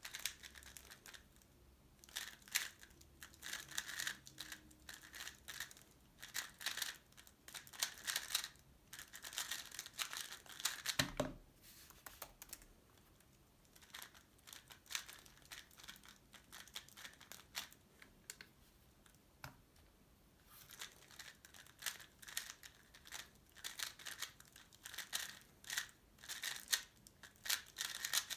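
Plastic 3x3 speedcube (X-Man Tornado V3 Pioneer) being turned fast: rapid runs of light clicking from the layers, with short pauses between bursts.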